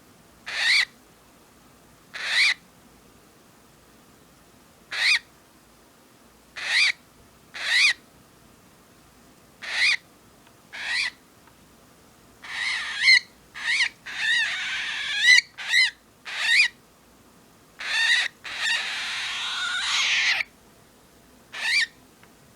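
Cockatiel giving short, sharp calls about every second or two, with longer hissing growls in the middle and again near the end, the sounds of an agitated cockatiel.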